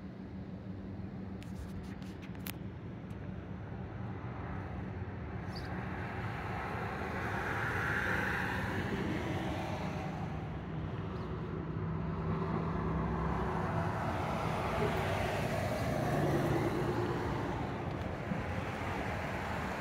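Road traffic going by: a steady low hum with passing vehicles that swell louder about eight seconds in and again around sixteen seconds.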